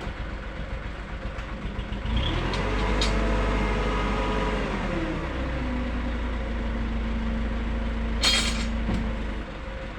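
A heavy vehicle's engine running close by, its pitch rising after about two seconds, holding, then dropping to a lower steady drone. A brief hiss comes near the end.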